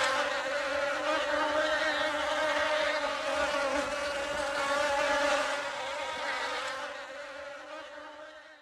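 Bee buzzing: a steady, pitched hum that fades away near the end.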